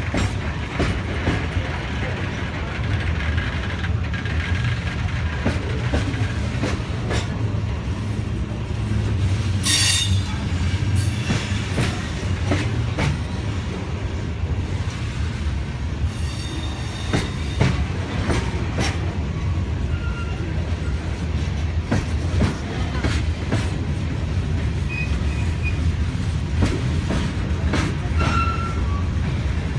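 Freight train of open-top gondola cars rolling past: a steady low rumble of wheels on rail with repeated clicks over the rail joints. Brief high wheel squeals, the sharpest about ten seconds in.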